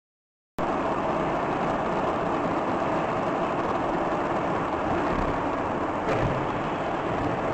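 Steady driving noise of a moving vehicle, engine and tyres on the road, starting abruptly about half a second in after silence.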